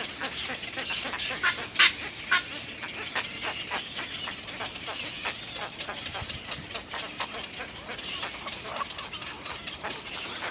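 Little egrets calling at the nest: a rapid, uneven run of short clicking notes, with a few louder ones about two seconds in.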